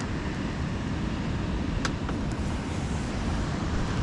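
Steady wind buffeting the microphone with a low rumble, with a single sharp click about two seconds in.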